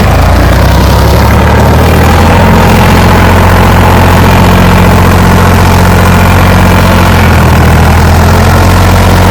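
Sonalika 47 RX tractor's diesel engine running loud and steady, its low note stepping up slightly about half a second in.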